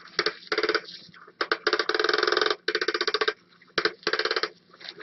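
Motorized cat toy clattering in stop-start bursts of rapid clicks, each lasting up to about a second, with short pauses between them.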